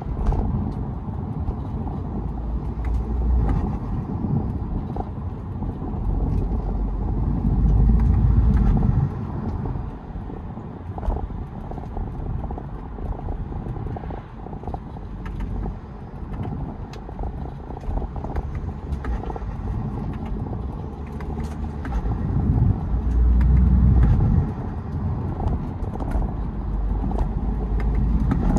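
BMW E92 320d's four-cylinder turbodiesel running on the move with road noise, growing louder twice under acceleration, about a quarter of the way in and again near the end.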